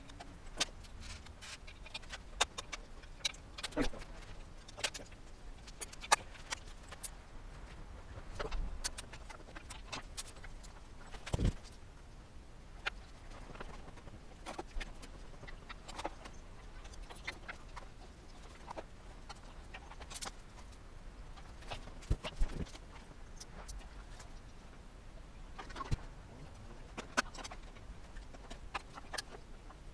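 Irregular clicks, knocks and clinks of hand tools and metal parts being handled while components are disconnected in a car's engine bay, with a few sharper knocks standing out.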